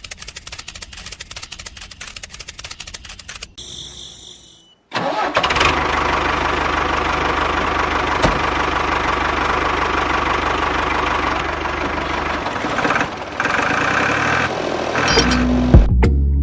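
Rapid, even ticking for about three seconds, then from about five seconds in an engine running loudly and steadily, its low hum growing deeper and stronger near the end.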